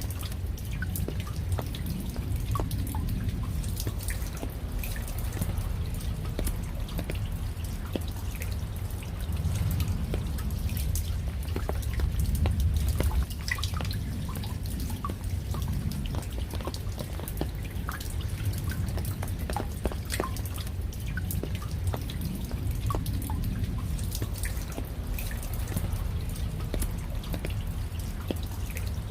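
Raindrops dripping and pattering in many irregular sharp ticks over a steady low rumble of rain.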